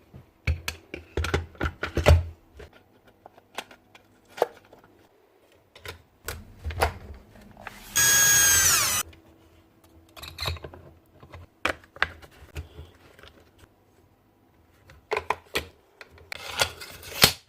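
Metal and plastic parts of a Tjep gas nailer clicking and knocking as they are handled during servicing. About eight seconds in, a small motor gives a loud high whine for about a second that drops in pitch as it stops.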